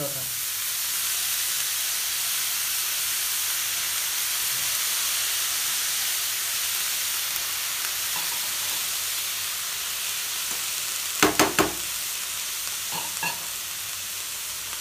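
Grated carrot and beetroot with onion sizzling steadily in hot oil in a nonstick frying pan, just sprinkled with water, while a spatula stirs it. About eleven seconds in come three quick, loud knocks.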